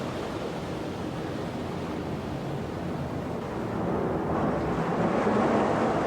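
Steady rushing hiss of heavy rain, swelling a little louder about four seconds in.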